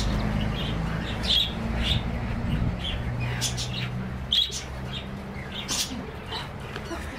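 Small birds chirping, short high chirps every second or so, over a low steady hum.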